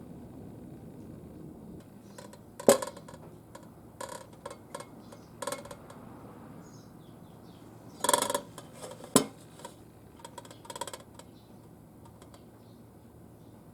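Light metal pieces clinking and clanking as they are handled, in scattered knocks: a sharp one about three seconds in, a cluster around eight seconds and another sharp knock just after nine.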